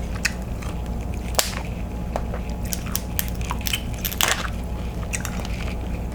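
Close-miked eating: a person chewing and crunching on buttered seafood, with many sharp, irregular wet clicks and smacks. A steady low hum sits underneath.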